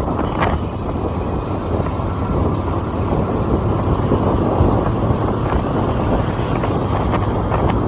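Motorcycle riding at road speed: steady wind rush over the microphone mixed with engine and tyre noise, with a low drone underneath.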